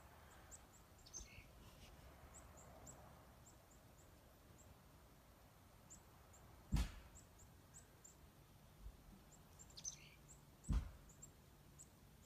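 Faint small birds chirping, many short high chirps repeating throughout over a quiet background. Two sharp thumps break in, one a little past the middle and one near the end.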